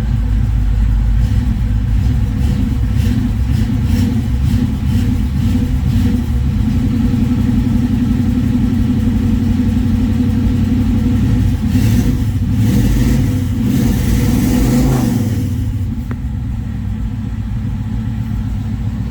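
Classic Chevrolet engine running just after a cold start, having sat for a week. It runs steadily and picks up about twelve seconds in, then eases off slightly near the end.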